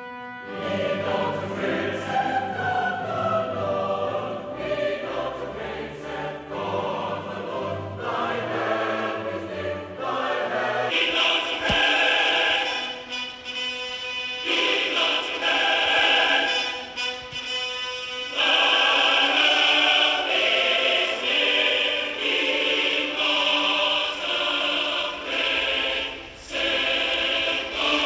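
Closing music: a choir singing sustained notes over orchestral accompaniment, the low instruments dropping out about eleven seconds in and the voices carrying on.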